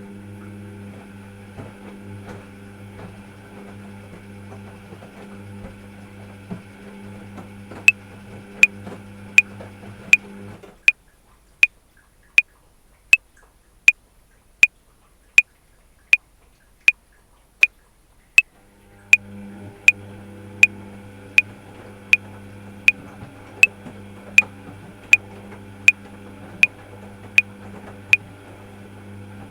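Metronome clicking at 80 bpm, 28 even clicks making four bars of 7/4, over a washing machine's steady running hum that drops out for several seconds in the middle.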